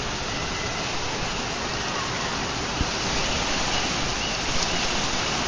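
Heavy rain pouring steadily: a dense, even hiss of rain falling on the street and buildings.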